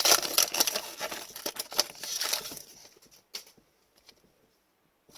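Crinkling and rustling from hockey card packs and cards being handled, a dense run of crackles for the first two and a half seconds, then a single sharp click about three and a half seconds in.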